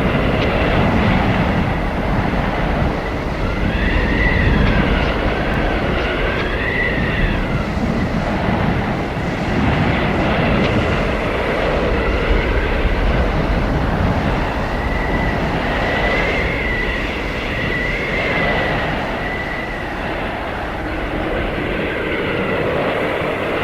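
Blizzard wind blowing hard: a steady roar with a deep rumble, and high whistling howls that rise and fall in pitch and come and go in gusts.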